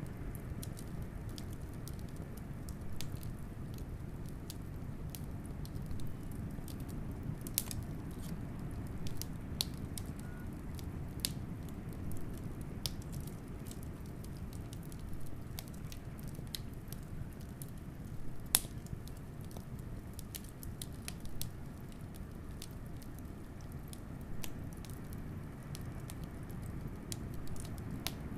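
Wood fire crackling with irregular small pops and snaps, one sharper pop about two-thirds of the way through, over a steady low rush of wind.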